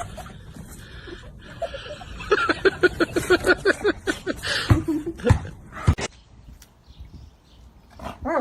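An animal calling in a quick run of short, pitched cries, about six a second, followed by a few sharp knocks.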